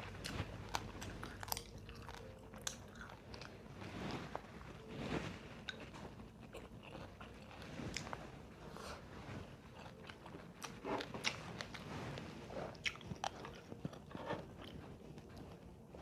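A person eating close to the microphone: crunchy bites and chewing, coming as irregular short crunches and clicks.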